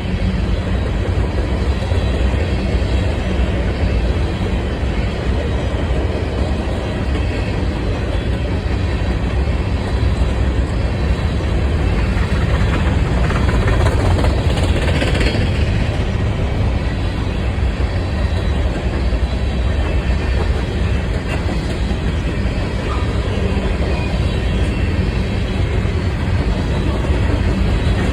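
Union Pacific train rolling past, a steady heavy rumble of wheels on rail that never lets up, with a brief hissier swell about halfway through.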